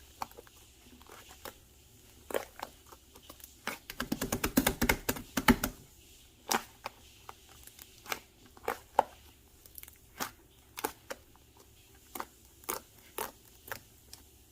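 Hands squeezing and poking slime, with sharp popping clicks from trapped air. About four seconds in comes a quick run of pops lasting a couple of seconds, then single pops every half second or so.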